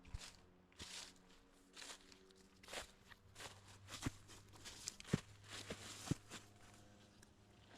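Footsteps of a hiker walking on a trail, a crunching step about every half second to second.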